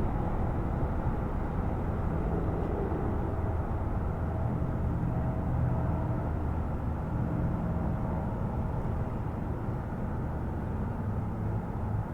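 Boeing 767-300's twin jet engines at takeoff power on the takeoff roll: a steady low rumble with a faint whine held above it.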